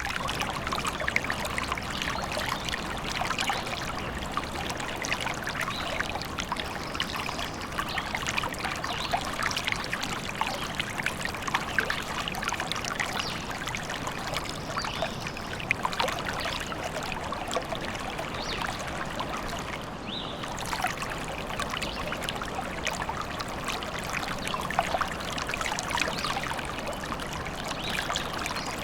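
Forest stream babbling and trickling steadily.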